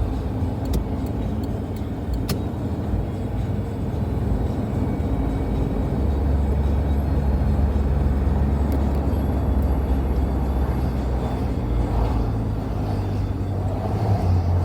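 Car running on the road, a steady low engine and road rumble that deepens and grows louder about six seconds in. A few light clicks in the first couple of seconds.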